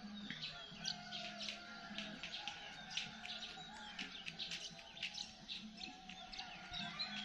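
Many small birds chirping and calling in quick, overlapping chirps, over a low steady hum.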